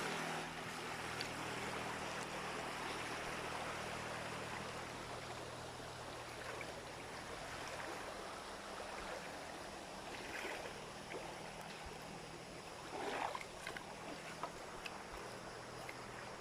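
Steady rushing noise with a low motor hum underneath that fades out near the end, and a brief louder rustle about thirteen seconds in.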